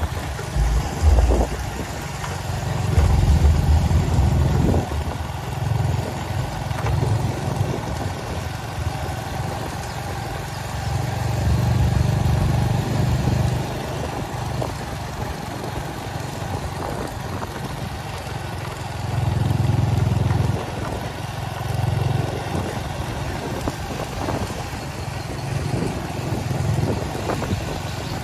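Motor vehicle engine running steadily, with a low rumble that swells and fades every several seconds.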